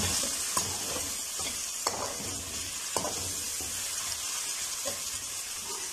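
Chopped onion and garlic sizzling in hot oil in a steel karahi, a steady frying hiss, while a slotted metal spatula stirs them, scraping and clicking against the pan a few times.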